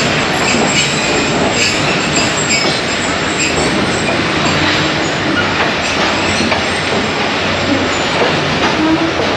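A passenger train heard from aboard a coach as it runs through a station yard: a steady rumble of wheels on rail, with high wheel squeals in the first few seconds and a few clacks over rail joints and points.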